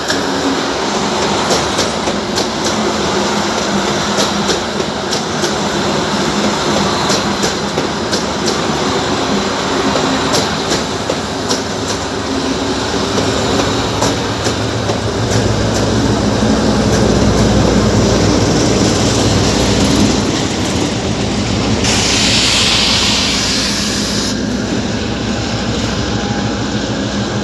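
Train running on the rails, its wheels clicking repeatedly over the rail joints. A low rumble swells around the middle, and a burst of hiss lasts about two seconds near the end.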